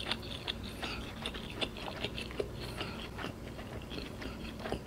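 Close-miked chewing of fried, sauce-coated chicken balls (boba ayam): a quiet, steady run of small mouth clicks and smacks.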